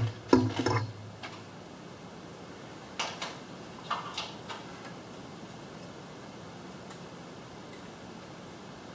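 A few light clicks and taps of small parts being handled while wiring the garage door opener's circuit board, clustered in the first second and again about three to five seconds in, over a faint steady hum.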